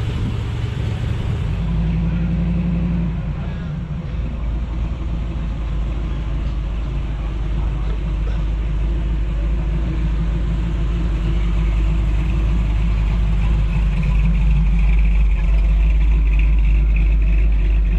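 A Chevrolet Nova's hot-rod engine running with a choppy, loping idle typical of an aggressive camshaft. The low rumble grows louder toward the end.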